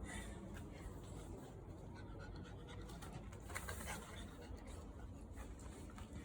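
Bichon frise panting softly, with scattered light scratching and rustling and a louder rustle a little past halfway.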